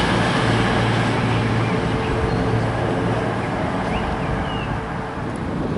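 Diesel train moving away, its steady engine hum slowly fading.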